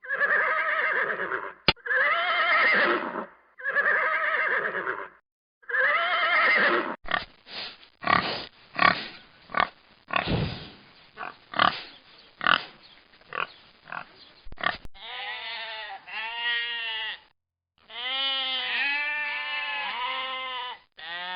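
A run of farm animal calls. It opens with a goose's loud honking calls, repeated several times, then a quick series of short, sharp animal calls, and from about two-thirds of the way through, a goat bleating in long wavering calls.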